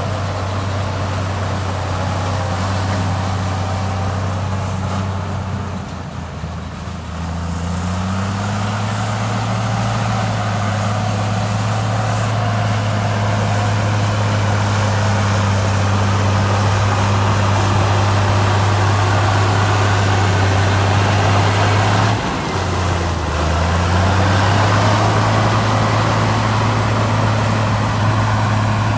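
Heavy diesel engine of earthmoving machinery running steadily under load. Its speed sags twice, once about six seconds in and again about two-thirds of the way through, then picks back up.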